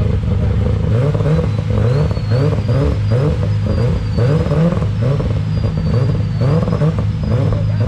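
A car engine revved in a quick run of short throttle blips, about two a second, with a thin high whine wavering above it.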